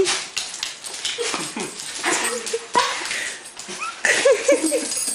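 A dog whining and whimpering in excitement at greeting its owner, with short high-pitched whines that come quickly near the end, and rustling of movement in between.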